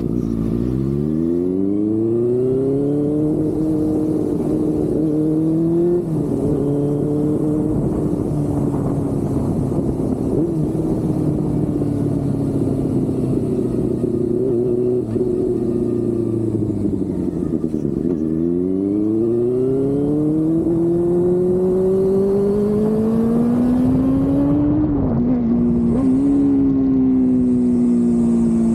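Benelli 600i's inline-four engine running through an aftermarket exhaust. The revs climb over the first few seconds and hold, drop back about two-thirds of the way through, then climb again.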